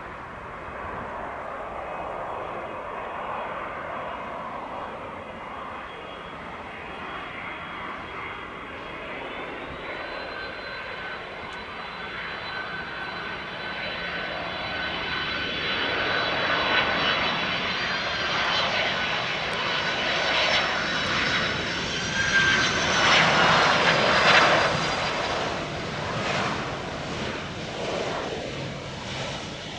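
Boeing 767 freighter's jet engines running, a whine over a rushing noise that steps up in pitch twice and grows louder, then fades near the end.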